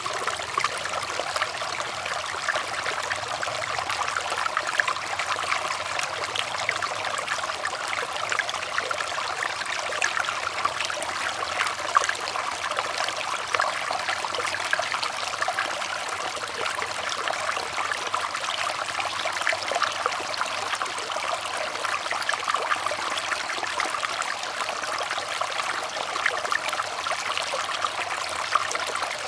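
Running water trickling and splashing steadily, a continuous babble of small splashes like a shallow stream.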